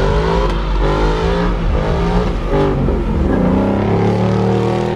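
A car's engine revving hard, its pitch rising and falling repeatedly, as the car starts a burnout.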